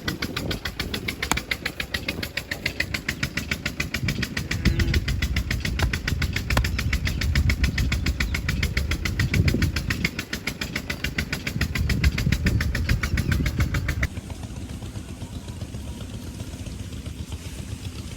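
Engine running with a steady, rapid firing beat. About fourteen seconds in it cuts abruptly to a quieter, smoother engine sound.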